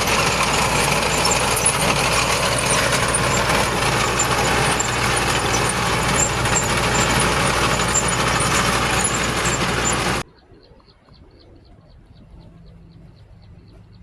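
Heavy diesel earthmoving machinery running steadily and loud, which cuts off suddenly about ten seconds in, leaving faint regular ticking.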